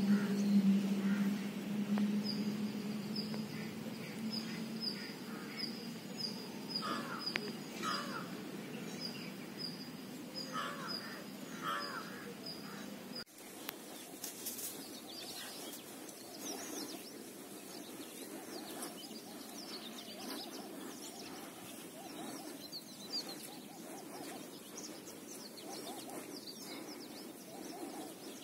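Birds calling outdoors: a high short note repeats about twice a second through the first half, then many scattered short chirps follow.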